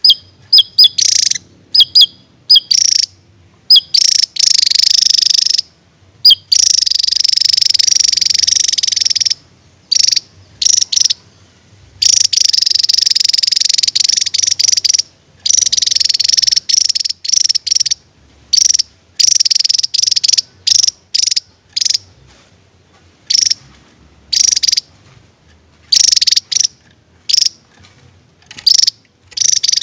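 Javan tesia singing: short, sharp, high-pitched notes and bursts interspersed with several long, rapid, high trills lasting a few seconds each, with brief silences between phrases.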